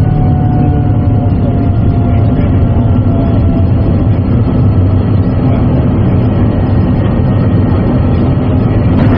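Steady engine and airflow rumble inside the cabin of a Boeing 787 airliner in flight, with a few faint steady whining tones over the deep roar.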